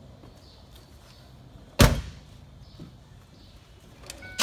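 A pickup truck's door slams shut once, about two seconds in, against a quiet background.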